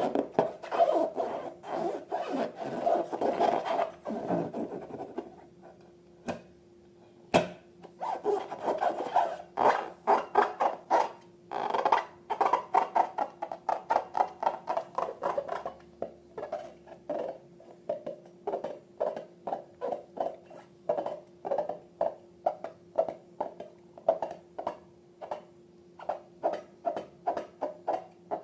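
Slime being worked by hand: first a stretch of dense squishing, then after a single sharp click, a run of short, wet squelches repeating about two a second as it is pressed and pulled.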